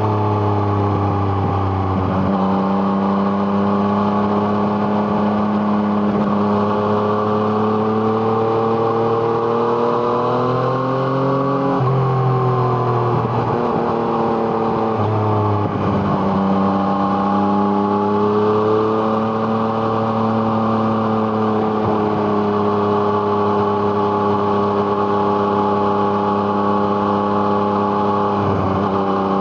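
Yamaha MT-09's three-cylinder engine through an Arrow Thunder exhaust, heard from on the bike under steady throttle. The revs climb slowly for about ten seconds, drop back, then rise again and hold.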